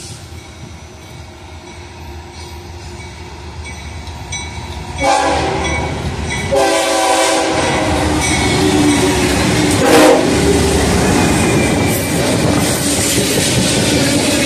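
BNSF diesel freight train approaching as a low rumble that grows, its locomotive horn sounding loudly about five seconds in for a second or two. The locomotive then passes close and the train rolls by at a steady loud level, wheels rattling over the rails.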